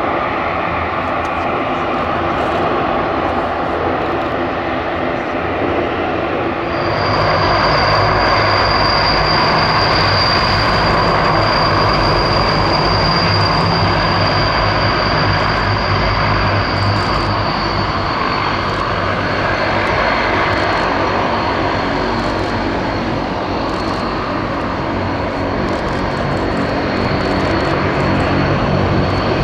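Transall C-160's twin Rolls-Royce Tyne turboprop engines running during its landing. About seven seconds in the sound jumps louder and a high steady whine comes in over the propeller drone, easing slightly lower in pitch about halfway through.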